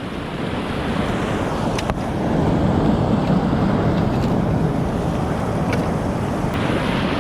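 Steady rushing noise, heaviest in the low range, that grows louder about two and a half seconds in, with a few faint clicks.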